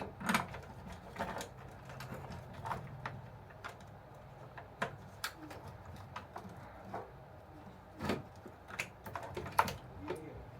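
Scattered, irregular light clicks and taps of small tools and plastic parts being handled during work on an RC toy bulldozer.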